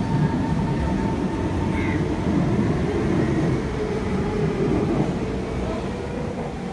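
SMRT MRT train moving along a station platform: a continuous rumble of wheels and running gear, with a faint steady whine.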